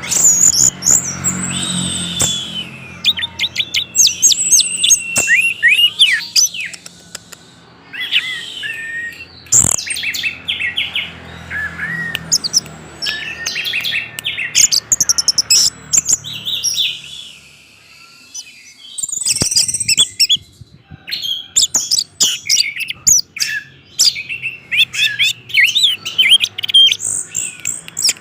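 Orange-headed thrush singing a rapid, varied song of high whistled phrases, glides and trills, with a pause of about two seconds past the middle.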